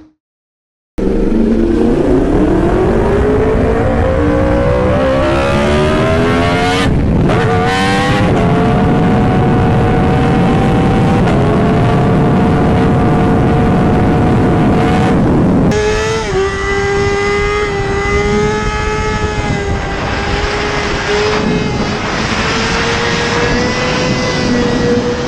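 Yamaha sportbike's inline-four engine at high revs: after a second of silence its pitch climbs hard with two quick gear-shift breaks, then holds a high, steady note at speed. About sixteen seconds in the sound cuts to another steady high-revving run.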